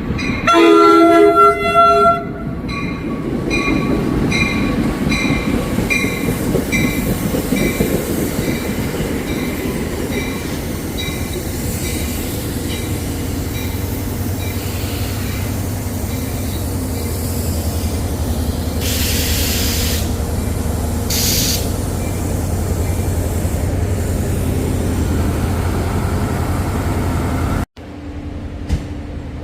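A passenger train blows a loud chord on its horn for about two seconds, then runs past with a steady rumble and regular clicking of wheels over the rails. The sound cuts off abruptly near the end.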